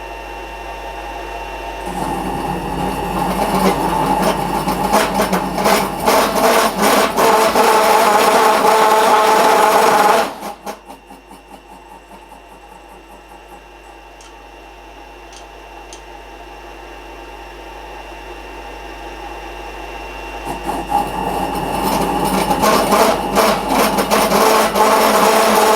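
A workshop machine runs with a steady hum. Twice, for about eight seconds each, a much louder rough working noise with a steady tone builds up over it; the first spell stops suddenly about ten seconds in.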